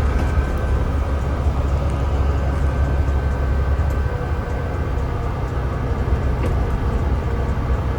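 Mercedes-Benz O307 city bus underway, heard from inside the cabin: a steady diesel engine drone with road and body noise. The low drone shifts in pitch about halfway through.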